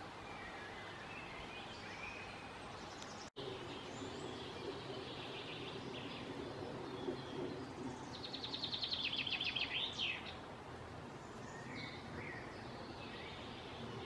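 Birds calling over a steady outdoor hiss: scattered high chirps, then a fast run of rapidly repeated high calls about eight seconds in, lasting some two seconds.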